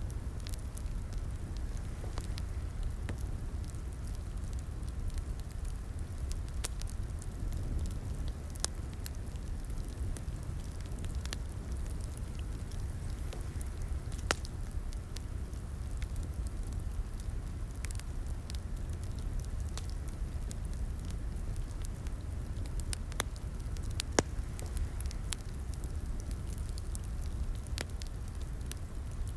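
Crackling fireplace wood fire: a steady low rumble of burning with scattered sharp pops and snaps at irregular intervals, the loudest pop about 24 seconds in.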